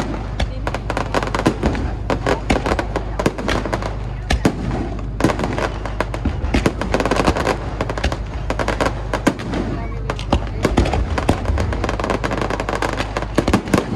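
Fireworks going off: a dense, unbroken run of crackles and bangs from bursting shells.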